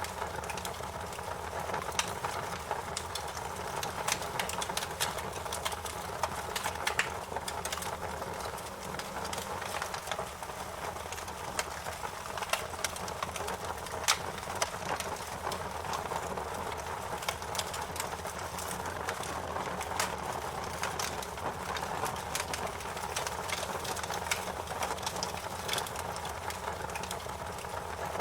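Campfire crackling: a steady hiss of flames broken by frequent, irregular sharp pops and snaps.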